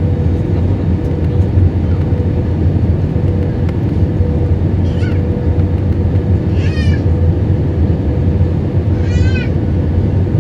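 Steady roar of an Airbus A320's cabin on approach, from airflow and its IAE V2500 engines, with a constant hum. Three short, high-pitched squealing cries rise over it about halfway through and near the end.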